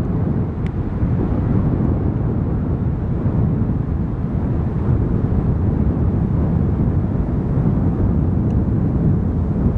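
Wind buffeting the microphone: a steady low rumble with no rise or fall.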